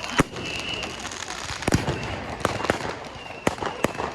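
Fireworks going off, a string of sharp bangs at uneven intervals, about seven in four seconds.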